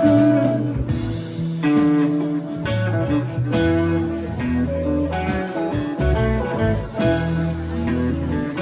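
Live band playing an instrumental passage led by guitar over bass, with no singing.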